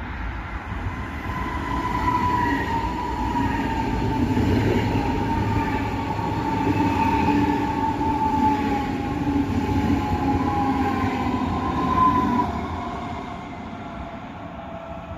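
A train moving through a station platform: a rumble with a high squealing tone that slowly falls in pitch. It builds over the first few seconds, is loudest about twelve seconds in, then fades.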